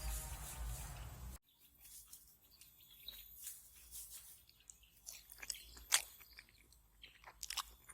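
A person chewing food close to the microphone, with scattered crunches and mouth smacks and one sharper crunch about six seconds in. Background music runs for the first second and a half, until a cut.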